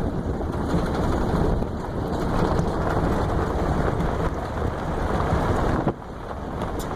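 Wind buffeting the microphone: a loud, gusting rumble that dips briefly about six seconds in.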